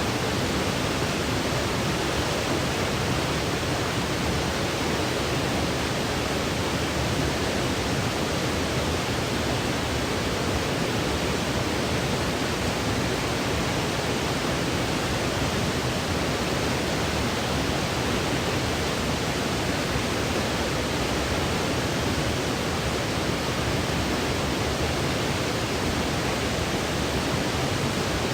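Steady, unbroken white noise from a sleep-aid noise track, an even hiss with no changes, tones or events.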